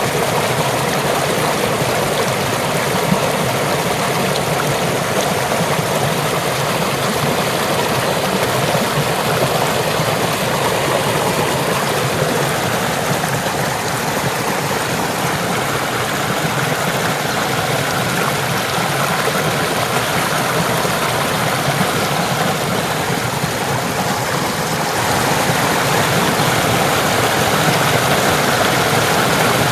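Rushing water of a waterfall and river, a steady, even roar that grows a little louder in the last few seconds.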